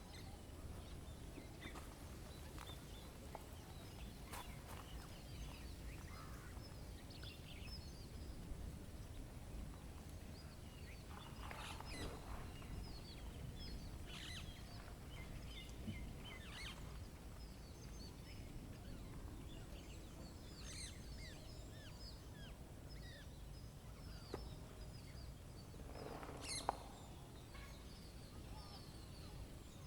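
Small birds chirping and calling at scattered intervals over a steady low rumble of outdoor background noise, with a couple of louder, longer calls about twelve seconds in and again near the end, and a brief click near the end.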